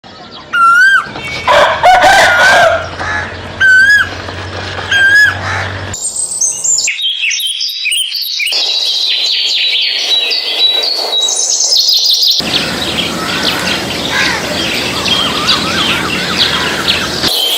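Birdsong in several edited segments. At first, a loud pitched call repeats four times, about every second and a half. After that comes busy, high twittering and chirping from many small birds.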